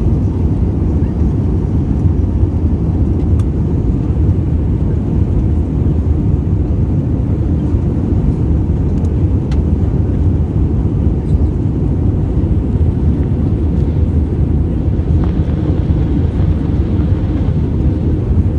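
Steady low rumble of an Airbus A320's cabin in descent: engine and airflow noise heard from inside the cabin, even and unchanging, with a slight rise in hiss near the end.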